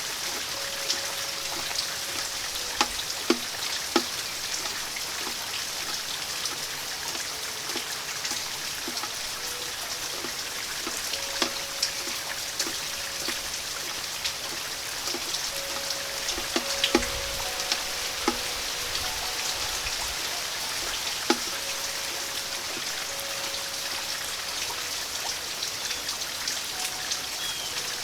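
Steady rain falling, with individual heavy drops tapping sharply on the porch now and then. Wind chimes ring softly at intervals, each note held for a second or two.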